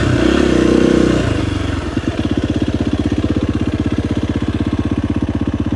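KTM 250 XCF-W dirt bike's single-cylinder four-stroke engine running at a steady speed, then dropping back about a second in and settling into an even, pulsing idle.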